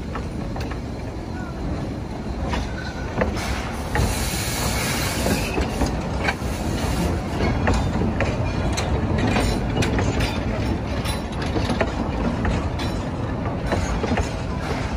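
Steam train's open passenger cars rolling along the track: a steady rumble of wheels on rails with irregular clicks over the rail joints. A stretch of hiss comes in about four seconds in and lasts a few seconds.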